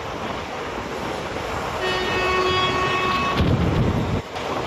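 Running noise of a moving passenger train heard from inside a sleeper coach, a steady rush with low rumbling swells. About two seconds in, a horn sounds one steady note for about a second and a half.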